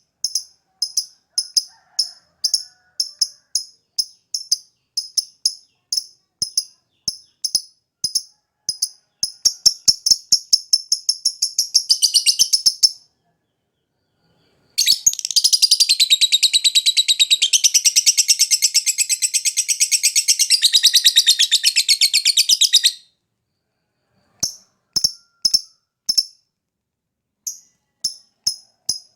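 Lovebird singing. Sharp high chirps come about twice a second and speed up into a fast trill. After a short pause comes a long, unbroken rapid chattering run of about eight seconds, then spaced chirps again.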